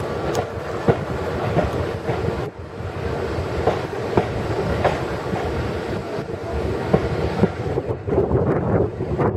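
Railway carriage running along the track, heard from inside: a steady rumble with irregular clicks and knocks of the wheels over the rails.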